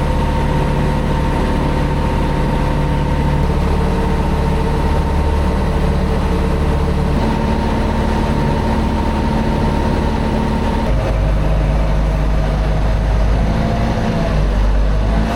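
A boat's engine running steadily and loudly, changing its note about eleven seconds in as the engine speed changes.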